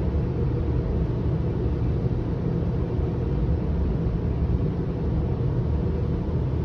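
Steady rumbling noise of car wash tunnel machinery heard from inside a truck's cab as it rides through the wash, with an even hiss above the rumble and no separate knocks or events.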